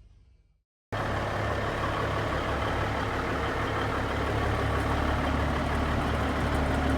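1977 Kenworth truck's diesel engine running steadily, cutting in abruptly about a second in after a moment of dead silence.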